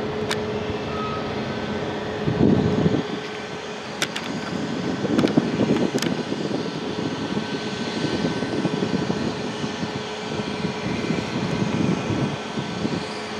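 Steady rumble of the Amtrak California Zephyr passenger train receding down the track, with irregular louder swells and a few sharp clicks.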